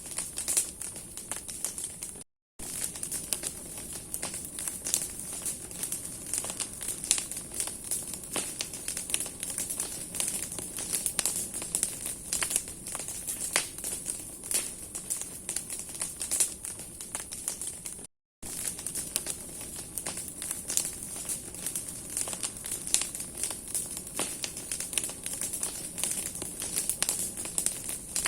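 Large bonfire of burning branches crackling, a dense, irregular stream of sharp snaps and pops over a steady high hiss. The sound cuts out for a moment twice, about two seconds in and again near eighteen seconds.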